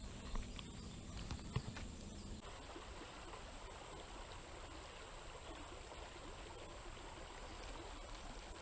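Creek water running steadily, with a few light clicks in the first couple of seconds.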